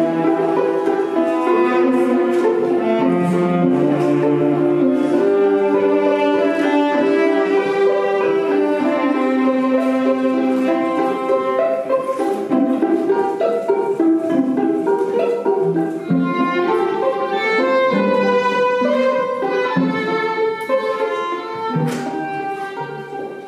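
String music on violin and cello, playing a melody with sustained bowed notes, growing quieter over the last few seconds.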